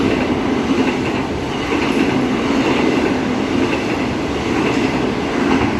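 Six-car Transperth electric multiple unit passing through a station platform at high speed without stopping: a loud, steady rumble of wheels on rail.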